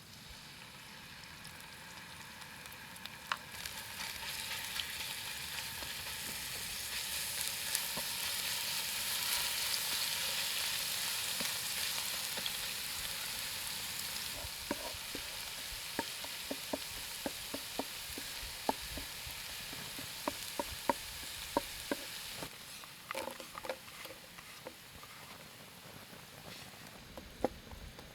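Food sizzling in a frying pan, the sizzle swelling over the first ten seconds or so and then easing off. From about halfway, light taps of a stirring utensil against the pan come through it, and the sizzle drops away near the end.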